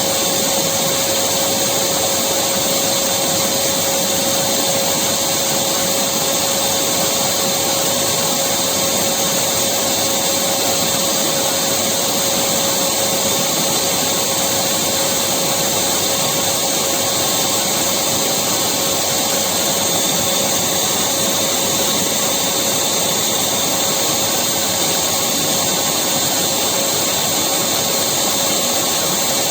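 Vacuum cleaner running continuously at a steady pitch, with a steady hum from its motor over a wide, even rush of air.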